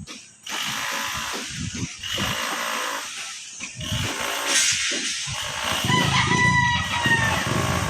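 A rooster crows once, one long call about three quarters of the way through, over a steady background of outdoor noise.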